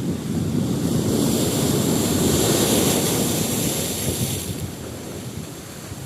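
Wind buffeting the microphone in gusts, with a rushing hiss over it that swells about a second in and falls away about four and a half seconds in.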